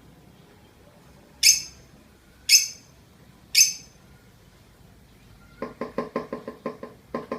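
Lovebird calling: three sharp, high chirps about a second apart, then a fast run of short repeated notes, about six a second, starting near the end, the start of its ngekek chatter.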